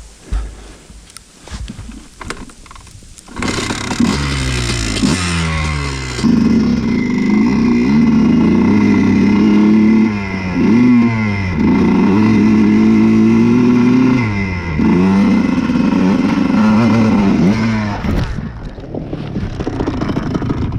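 Honda CR125's single-cylinder two-stroke engine revving hard as the bike pulls away, about three seconds in. Its pitch climbs in steps through the gears, then holds at high revs with a few brief dips off the throttle, and drops away near the end. Before the engine comes in, there are only light scattered knocks.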